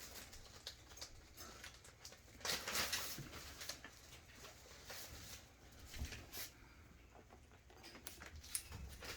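Faint, scattered light taps and rustles as a pet parrot eats spaghetti, with a small cluster about two and a half seconds in and single clicks later on.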